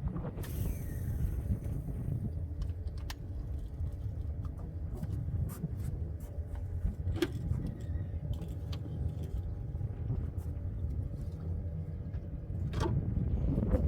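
Steady low rumble of wind buffeting the microphone, with scattered small clicks and taps.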